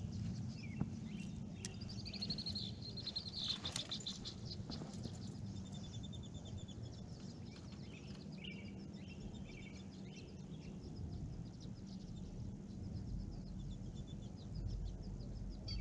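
Several songbirds singing: high trills and quick runs of repeated chirps, one after another, over a steady low background hum.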